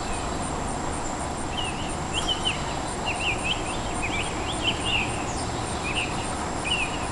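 Outdoor ambience: a small bird chirps in short, quick phrases from about a second and a half in, over a high insect pulse repeating about twice a second and a steady background hum.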